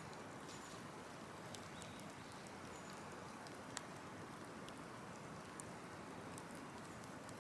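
Large wood bonfire burning with a steady hiss and scattered crackles, one sharp pop a little before the halfway point.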